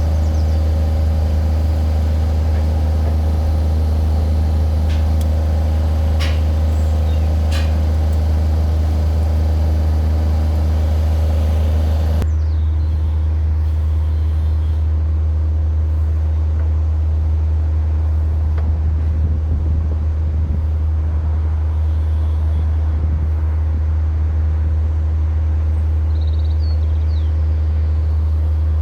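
A steady low engine-like rumble runs throughout. A higher hum over it cuts off about twelve seconds in, and a couple of sharp clicks come a few seconds in.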